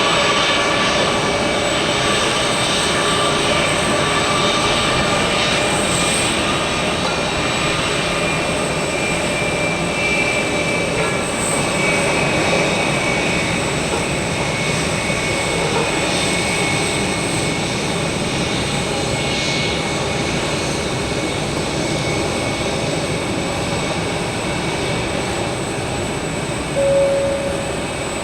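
Airbus A321's IAE V2533-A5 turbofan engines running, a steady jet roar with whining tones that slowly fades. A brief short tone sounds near the end.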